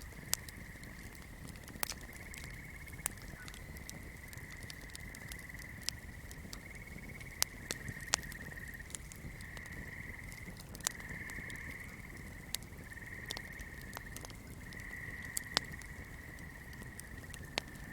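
Sharp, irregular crackles of a burning flame, a few every couple of seconds, over a steady high trilling chorus of swamp night creatures.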